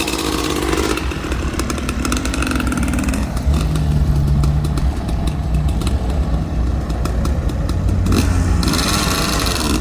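Motorcycle engine running at low revs, its pitch falling over the first couple of seconds and then holding a steady low note. A short hiss comes near the end.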